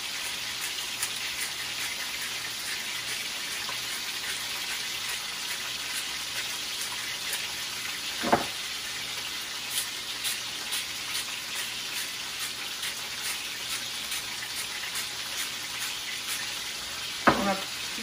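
Chicken breasts searing in hot canola oil in an enameled cast iron skillet: a steady sizzle with fine crackling spatter. A single knock sounds about eight seconds in, and another near the end.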